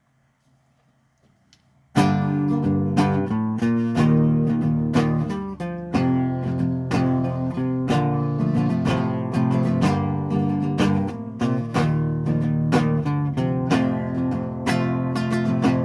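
Acoustic guitar being strummed, starting suddenly about two seconds in after near silence and then playing on steadily.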